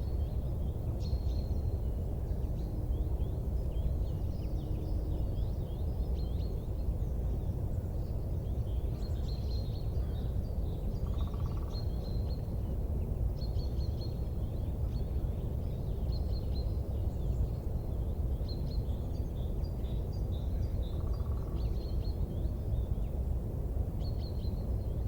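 Many small birds chirping in short, quick calls over a steady low rumbling noise.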